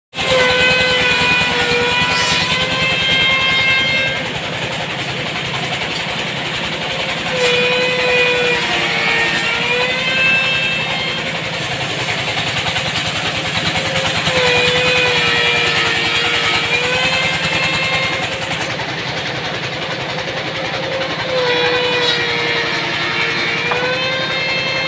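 Automatic woodworking machine running as it shapes wooden handles. Its motor hums steadily and sags briefly in pitch, with a rise in noise, about every seven seconds as each piece is cut.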